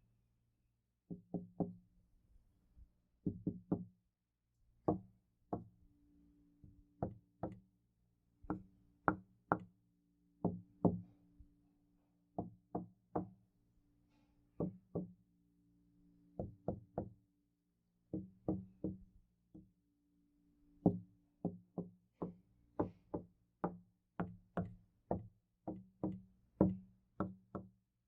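Knocking on a door in irregular groups of two to four knocks with short pauses, getting denser toward the end. Each knock leaves a low ringing tone behind it. Recorded in binaural 3D sound.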